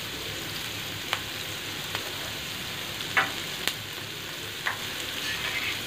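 Chopped onions and green chillies sizzling in hot oil in a kadai: a steady frying hiss with a few sharp pops.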